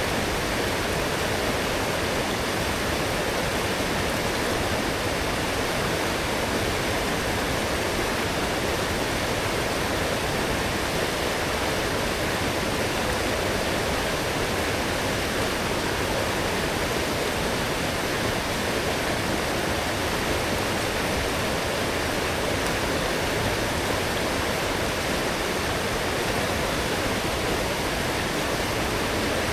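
Fast-flowing forest stream swollen after heavy rain, rushing water in a steady, unbroken roar.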